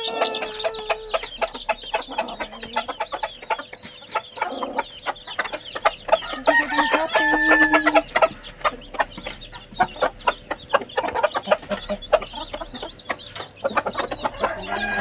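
Chickens clucking and chicks peeping as they feed on boiled rice, with many short rapid calls. About six seconds in there is a longer drawn-out call lasting about a second and a half.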